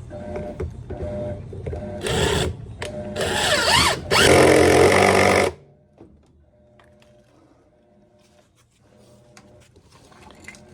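Power drill/driver with a T30 Torx bit running in short bursts, its speed rising and falling. The loudest and longest burst comes about four to five seconds in. Then it stops, and only faint clicks follow.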